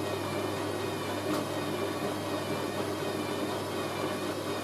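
Hoover A3060 washing machine starting its first intermediate spin, the motor and drum running with a steady hum and a faint, slightly wavering whine.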